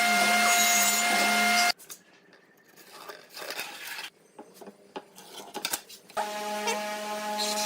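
Electric power tool running with a steady whine that stops abruptly about a second and a half in. A few seconds of faint taps and handling noises follow, then a power tool's whine starts again suddenly near the end.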